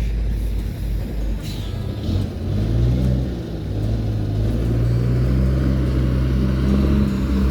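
Vehicle engine running steadily while the vehicle is manoeuvred, starting to rev up near the end.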